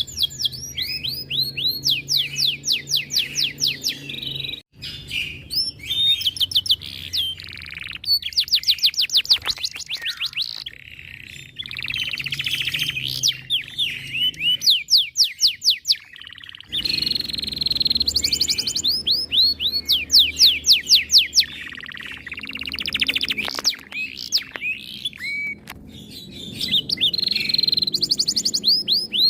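Domestic canary singing a long, continuous song of fast trills: runs of rapidly repeated sweeping notes mixed with held high tones, breaking off briefly a few times.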